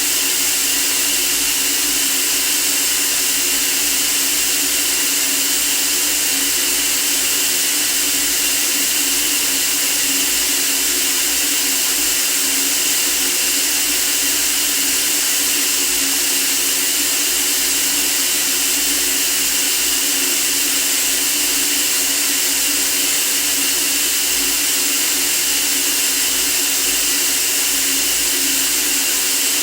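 Steady white noise: a continuous, unchanging hiss, brightest in the treble, with a faint steady hum-like band low down.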